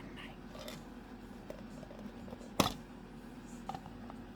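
Cockatoo's beak working at a toy as it picks it apart: a few light clicks and one sharp snap about two and a half seconds in.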